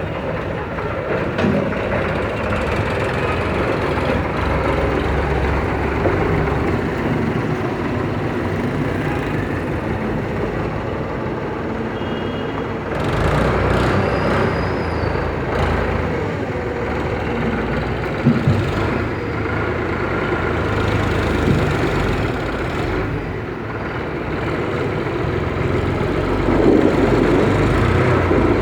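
Tractor engine running steadily, its loudness rising and falling a little over the stretch.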